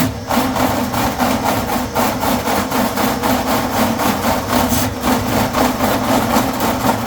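Electric drain-cleaning machine running, its motor spinning the cable as more cable is fed into a kitchen drain line clogged with grease and oil: a steady motor hum with a fast, continuous clatter from the turning cable.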